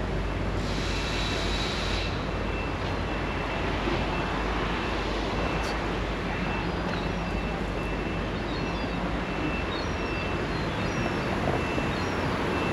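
Train running along the railway line: a steady rumble with a faint, thin high whine over it.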